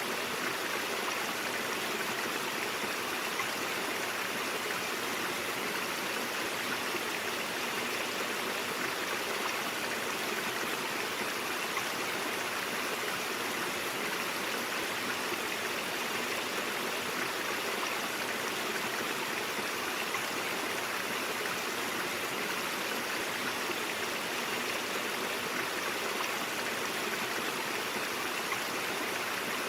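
Mountain stream flowing over rocks, a steady rushing and babbling of water with no breaks.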